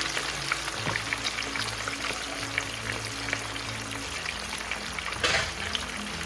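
Bone-in, skin-on chicken pieces deep-frying in a pot of oil at medium-low heat: a steady crackling sizzle of many small pops, swelling louder for a moment about five seconds in. Soft background music plays underneath.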